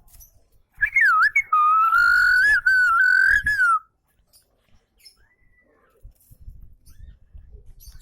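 Java sparrow singing: one long, wavering whistled note of about three seconds with clicks running through it, then a few faint chirps near the end. Soft low knocks sound under the song.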